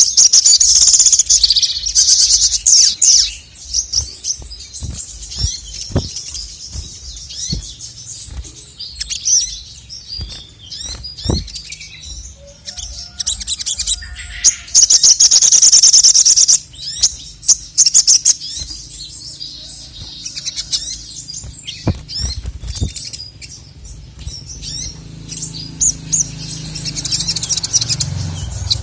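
Male sogon (sogok ontong), a sunbird, singing vigorously. It gives loud, rapid, high-pitched trilling bursts over roughly the first three seconds and again about halfway through, with scattered sharp chips between.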